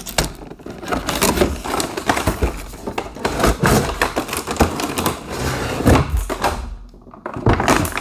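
Cardboard box and packaging being handled: a string of irregular knocks, taps and scrapes, with a short lull about seven seconds in.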